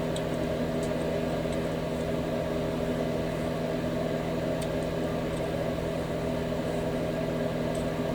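A steady machine hum made of several fixed tones, unchanging throughout, with a few faint light clicks.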